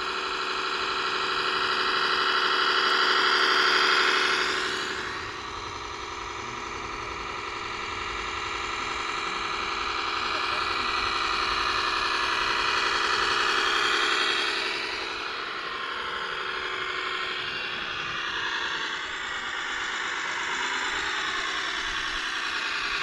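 RC model truck running: a whine of motor and gears with many tones. It swells, drops off about five seconds in, builds again, then glides up and down in pitch as the speed changes.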